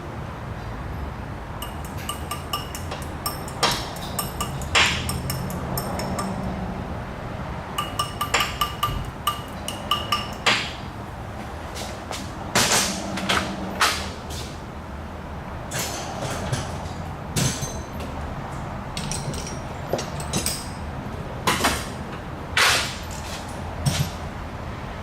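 Irregular sharp metallic knocks and clinks of hand tools on steel, some ringing briefly, during the extraction of a broken exhaust manifold bolt with a bolt extractor. A steady low hum runs underneath.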